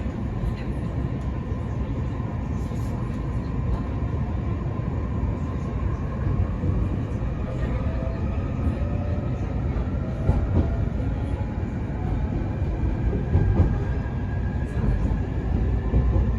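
Mito Line electric train running between stations, heard from inside the car: a steady rumble of wheels on the rails with faint humming tones above it.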